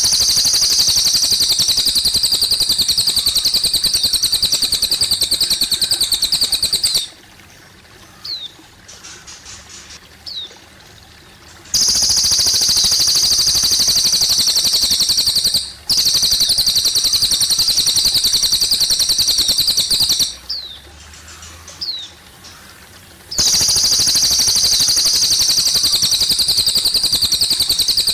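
Cililin songbird singing long, very rapid high trills of several seconds each, four in all, with short rising chirps in the pauses between them. Trickling water runs faintly underneath.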